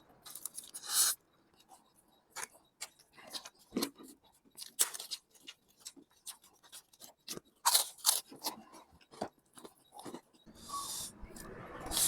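Close-miked eating of instant noodles: irregular slurps and chewing with wet mouth clicks. Longer hissing slurps come about a second in, near eight seconds, and near the end.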